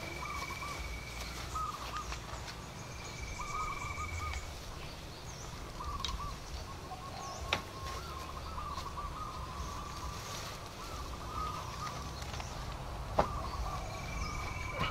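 Birds calling outdoors: repeated warbling calls, with a high steady note that comes and goes. A few sharp knocks sound in between, the loudest about 13 seconds in.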